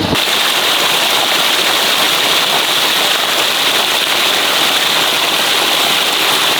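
Steady, even hiss of falling or splashing water, like rain, that starts and stops abruptly.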